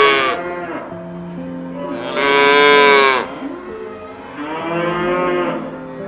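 Young Jersey cattle mooing: the tail of one call at the very start, then a long moo about two seconds in, the loudest, and a softer moo near the end.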